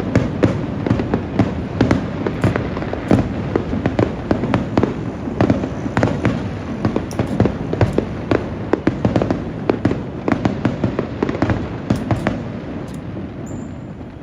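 Aerial fireworks bursting in a rapid barrage: many sharp bangs a second overlapping on a continuous rumble of echoing explosions, thinning out and getting quieter near the end.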